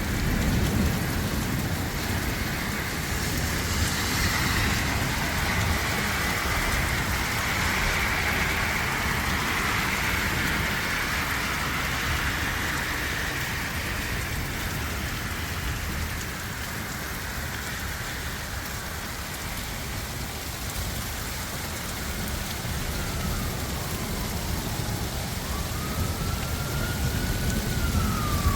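Heavy rain pouring steadily onto surfaces, with a low rumble under it. Near the end a siren wails, its pitch sliding up and down.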